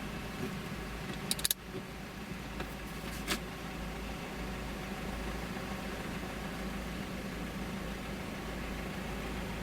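Car engine running steadily with a deep hum, with a few sharp clicks about a second and a half in and another about three seconds in.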